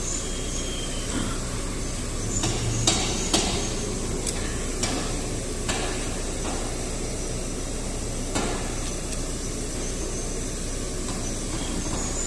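Metal hand tools clinking and knocking against engine parts: a handful of separate sharp knocks, the loudest about three seconds in, over steady background noise.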